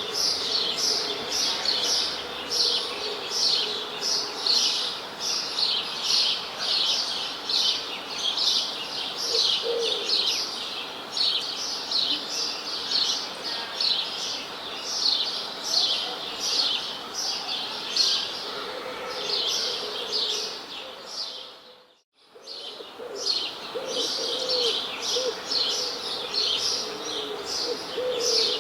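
Birds chirping: a dense run of quick, high chirps at about two a second, with a few lower calls now and then. The sound fades briefly to near silence about 22 seconds in, then the chirping resumes.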